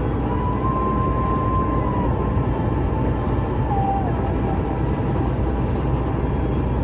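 Steady road and engine rumble heard inside a truck cab cruising at highway speed.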